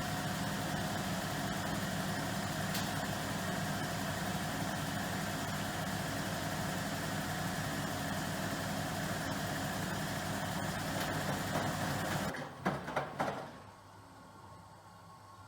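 Miele Professional PW6065 Plus washing machine running with a steady mechanical hum that cuts off suddenly about twelve seconds in. A few short knocks or clicks follow.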